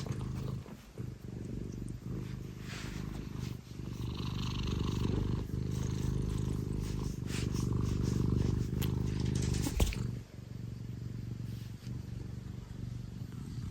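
Scottish Fold cat purring loudly and steadily close up, the purr dipping briefly every second or two with its breathing. A sharp click about ten seconds in.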